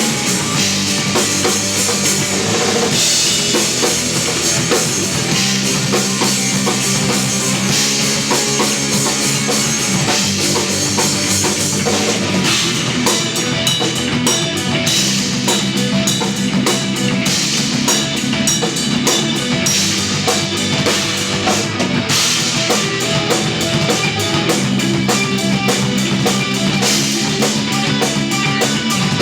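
Live instrumental post-rock trio playing: electric guitar, electric bass and drum kit. In the second half the drums shift to fast, steady cymbal strokes.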